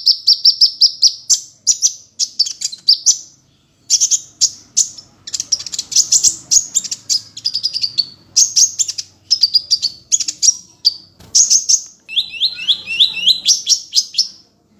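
Kolibri ninja sunbird singing: rapid, high-pitched chirping trills of quick repeated notes, delivered in bursts with short pauses between them.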